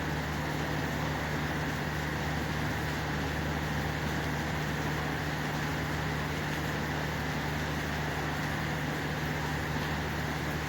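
Steady rain noise with a constant low hum underneath.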